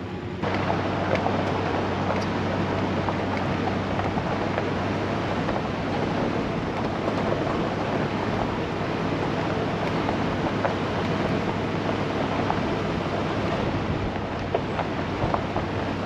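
Full-size pickup truck crawling up a steep dirt and gravel forest road in four-wheel drive: a steady low engine hum under a continuous rush of tyre and gravel noise with scattered small pops of stones. The rushing noise jumps up about half a second in.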